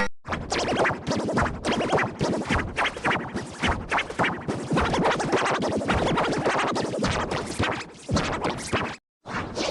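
Heavily effect-processed audio that stutters in rapid choppy cuts, like record scratching. It drops out completely for a moment about nine seconds in, then resumes.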